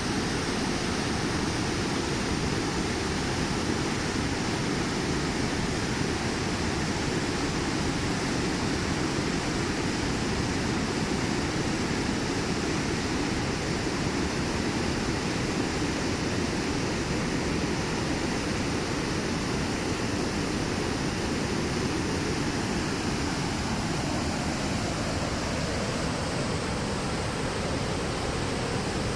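The River Lech's water rushing steadily, a continuous even roar with no change in level.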